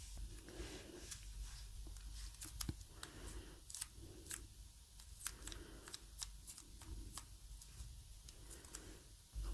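Quiet close handling of small craft materials on a table: many light sharp clicks and taps with soft rustles in between, as pieces are picked up and stuck on.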